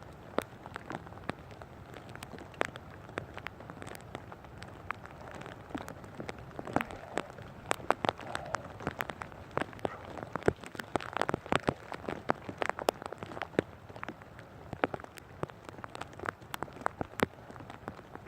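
Rain falling, with many sharp drops ticking irregularly close by.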